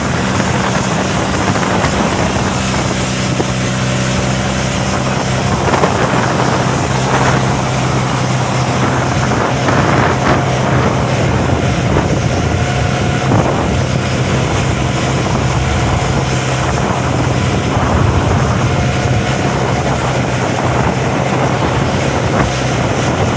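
Wooden fishing boat's engine running steadily under way, a constant low drone, under heavy wind buffeting the microphone and rushing water. There are occasional louder splashes or knocks from the waves.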